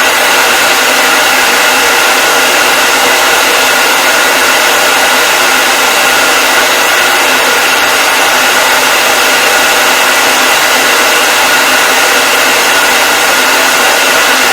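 Hair dryer running steadily: an even rush of blown air over a constant motor whine.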